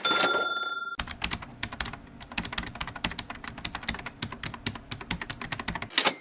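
Typewriter sound effect: a small bell dings once and rings for about a second, then rapid clacking keystrokes follow, many a second.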